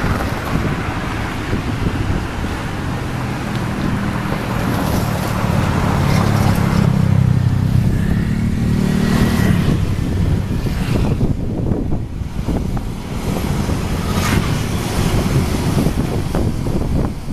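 Diesel train passing over a railway bridge: a low engine drone, loudest between about 3 and 10 seconds in, over rolling wheel clatter, with wind on the microphone.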